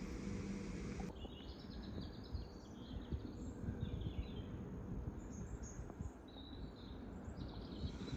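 Small birds chirping in short scattered calls over a low rumble of wind on the microphone. About a second in, a steady hum stops abruptly.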